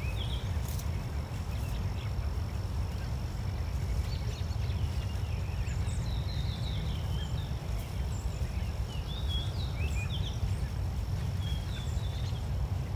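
Scattered short bird chirps, each a quick up-and-down glide, over a steady low rumble.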